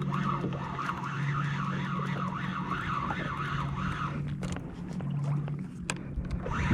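Fishing reel being cranked to bring a hooked fish up from the bottom, a whirring that rises and falls with each turn of the handle and pauses about four seconds in. A steady low hum runs underneath.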